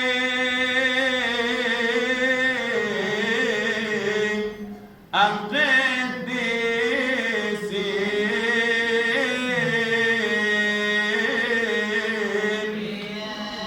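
Coptic liturgical chant: a single man's voice sings a long melismatic phrase of drawn-out, ornamented notes, and breaks briefly for breath about five seconds in.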